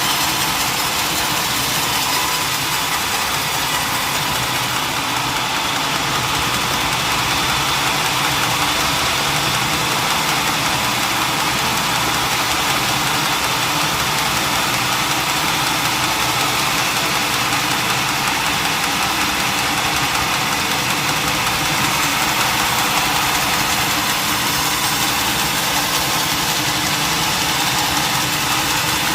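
An engine running steadily with no change in speed, a constant mechanical drone.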